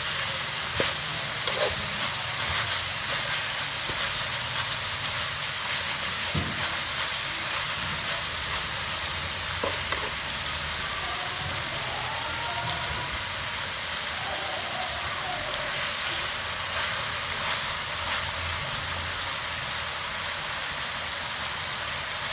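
Chicken with shredded lemongrass sizzling steadily as it fries in a metal wok. There are a few clicks of the metal ladle against the pan in the first half.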